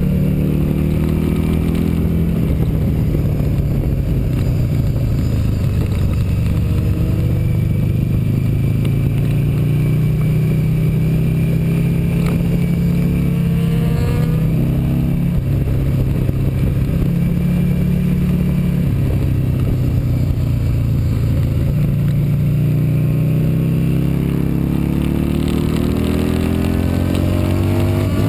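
Motorcycle engine at speed, heard from the handlebars, running hard and rising in pitch as it accelerates three times: at the start, midway, and near the end, with steadier running in between.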